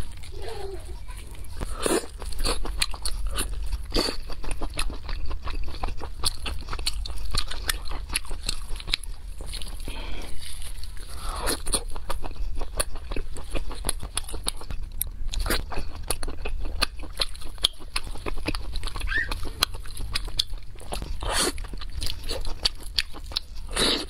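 Close-miked eating sounds: biting and chewing roasted meat, a dense run of short mouth clicks with louder bites about two seconds in and near the end.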